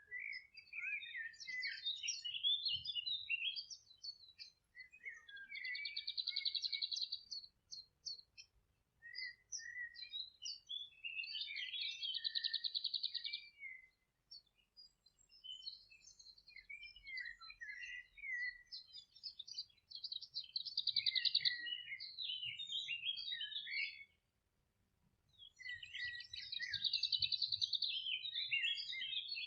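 Songbirds singing in a run of phrases a few seconds long, most holding a fast trill, with short pauses between them.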